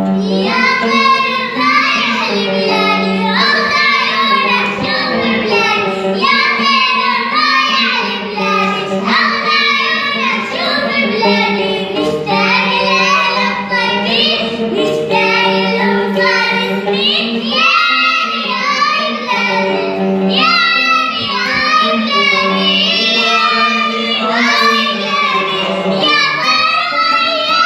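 Boys singing an Arabic song, their voices carrying a continuous, ornamented melody.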